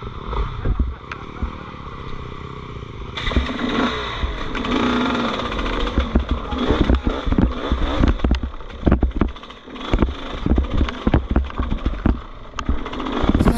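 Dirt bike running as it is ridden over rough ground, with many sharp knocks and rattles from the bike. It gets louder about three seconds in.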